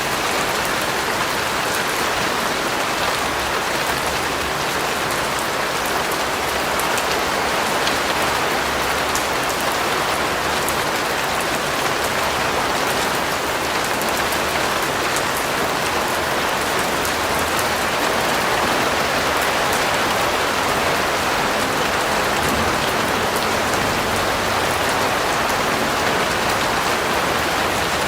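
Steady rain falling, an even hiss of many drops striking a surface with fine drop ticks through it.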